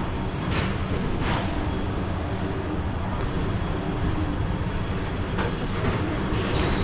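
Passenger train running at speed: a steady rumble of wheels and coach, with a few sharp clacks as wheels pass over rail joints.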